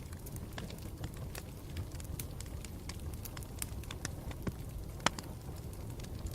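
Campfire burning with a low steady rumble and irregular sharp crackles and pops from the burning wood, one louder pop about five seconds in.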